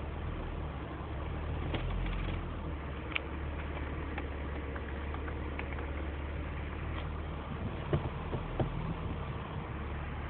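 Chevrolet Omega CD 3.0's inline-six engine idling steadily, heard from inside the cabin, with a few clicks about two-thirds of the way through.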